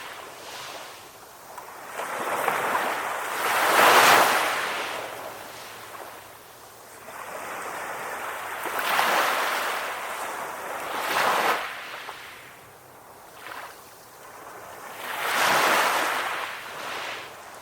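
Ocean waves breaking and washing up a shore. The surf swells and falls back every few seconds, loudest about four seconds in.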